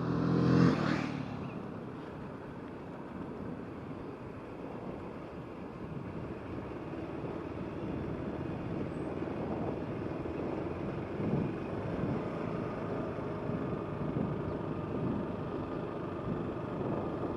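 Scooter running along the road, a steady rumble of engine, tyres and wind on the microphone. A brief loud pitched sound stands out in the first second.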